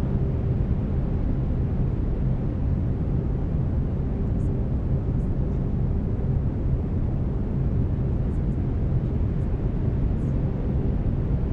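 Steady brown noise, a deep even hiss weighted toward the low end, with faint low steady tones (binaural-beat carriers) running underneath. A few faint, very brief high chirps come and go.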